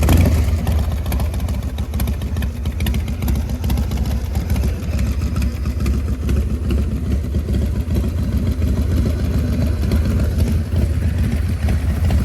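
Honda Shadow motorcycle's V-twin engine idling steadily with an even low rumble.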